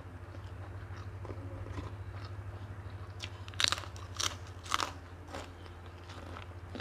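Close-up eating sounds: chewing a hand-fed mouthful of rice and side dishes, with three sharp crunches a little over halfway through. A steady low hum runs underneath.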